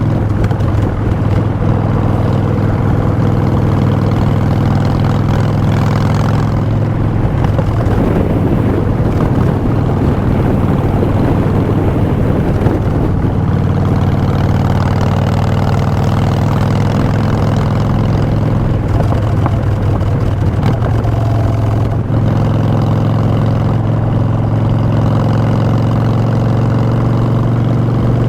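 Exhaust of a 2016 Harley-Davidson Street Bob's V-twin through Vance & Hines Short Shots pipes, running steadily on the move, its pitch rising slightly near the end.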